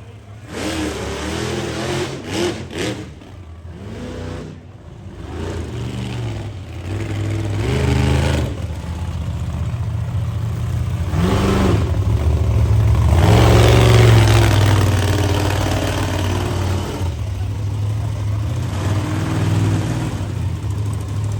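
Monster truck engine running and revving, its pitch rising and falling, loudest a little past the middle.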